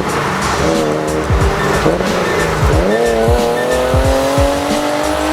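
Porsche 911 (997) Carrera 4S 3.8-litre flat-six with a full IPE Innotech exhaust (headers, X-pipe, valved mufflers), accelerating hard: a high-pitched rising exhaust note that drops once at a gear change and climbs again. The exhaust is really loud.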